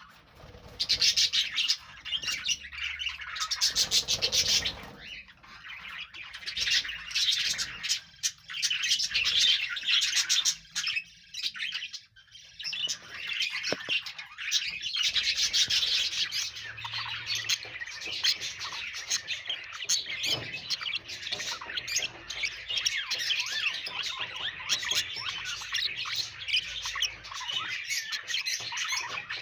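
A group of budgerigars chattering: continuous overlapping chirps and fast warbling trills, with occasional squawks.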